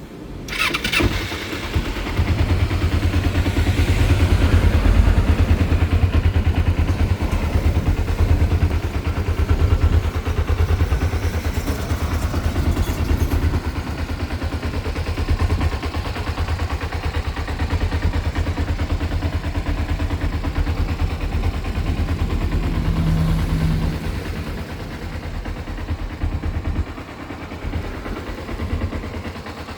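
1990 Kawasaki ZZ-R250's 248 cc parallel-twin engine being started: it cranks and catches about a second in, then runs steadily with a low exhaust pulse. It settles a little quieter after about 24 seconds.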